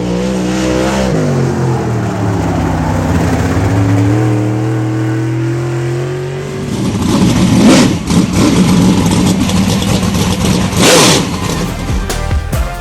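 Car engine running loud, its pitch dropping and then climbing steadily as it revs up, turning into a louder, rougher surging run from about seven seconds in.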